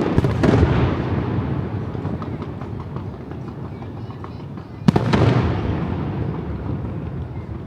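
Aerial fireworks shells bursting: loud bangs right at the start and again about five seconds in, each followed by a long rolling rumble that fades, with scattered small crackles.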